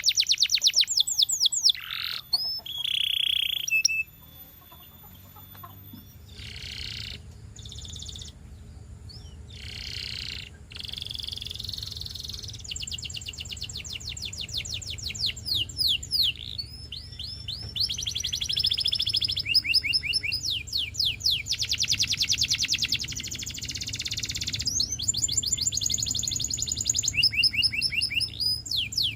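Canary singing in long, fast trills of rapidly repeated high notes. The song is loud at first, softer for several seconds, then builds again into loud rolling trills.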